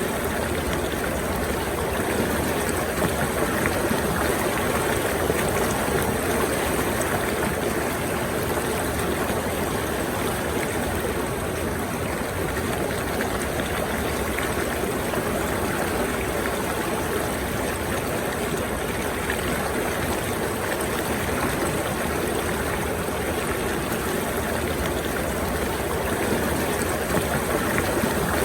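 Running water, a steady unbroken rush like a stream flowing.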